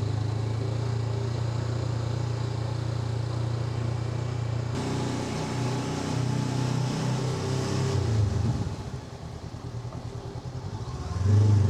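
Honda NX500's parallel-twin engine running steadily while riding. It eases off for a few seconds near the end and then picks up again.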